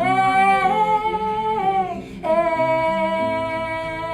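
A woman's voice singing long wordless held notes, two phrases with a short break about two seconds in, over acoustic guitar.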